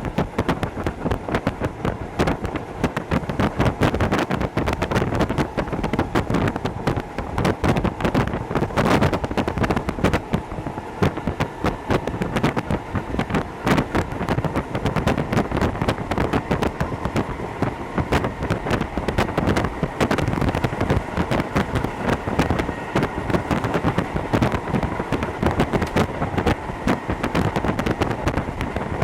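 Hokuso Railway 7260 series electric train running at speed, heard from inside the carriage: a steady rumble of wheels on rail, dense with rapid rattling clicks, under a faint steady whine.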